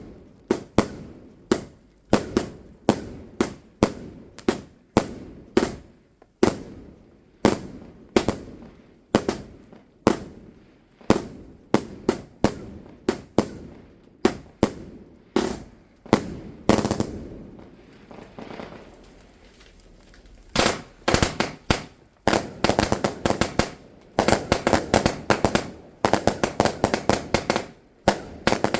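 Fireworks going off: a steady run of sharp bangs, about two a second, each with an echoing tail. After a short lull about two-thirds of the way through comes a dense, rapid crackle of many pops.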